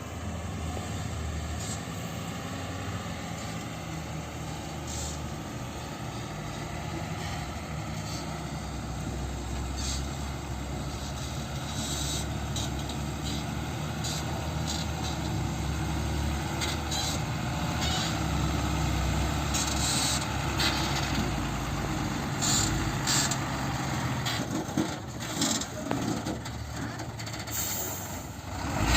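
A heavy dump truck's engine running steadily with a low drone that grows a little louder through the middle. Short sharp high-pitched sounds come now and then in the second half.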